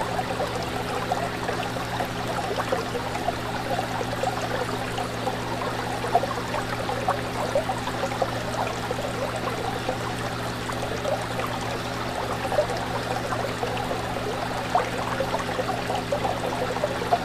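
Fish tank water trickling and bubbling continuously, with many small splashes, over a steady low hum.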